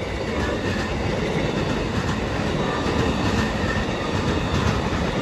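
Train passing close by, its wheels rumbling steadily and clacking over the rail joints.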